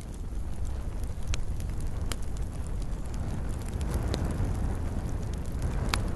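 Wood fire burning with a low steady rumble and a few sharp crackles and pops, the loudest near the end.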